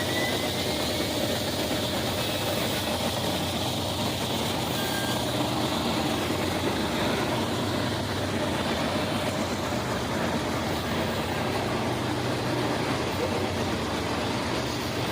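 Steady rumble of a train, with the low drone of diesel locomotive engines.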